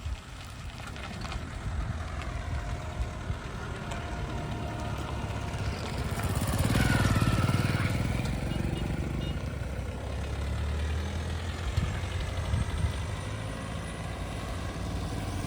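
Heavy diesel engine of earthmoving equipment running steadily. About seven seconds in it swells louder and harsher for a couple of seconds, then eases back to a steady run.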